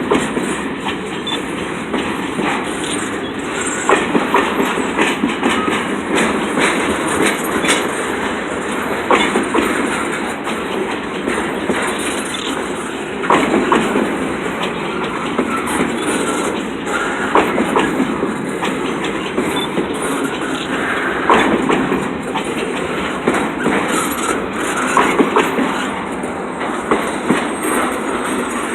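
Freight train cars rolling past, a steady rumble of steel wheels on rail with frequent irregular clicks and clanks as the wheels cross the rail joints.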